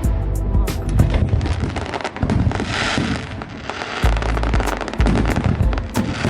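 Fireworks going off: dense crackling and bangs, with heavy low booms from about four seconds in, over music.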